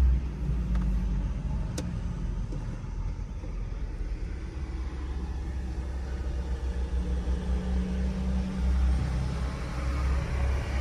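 Low, steady rumble of a Chrysler 300's V6 and its tyres on the road, heard from inside the cabin while driving.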